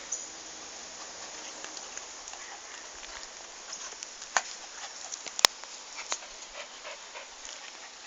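Two dogs playing: scuffling with scattered light clicks and knocks, the sharpest and loudest a little past the middle, over a steady hiss.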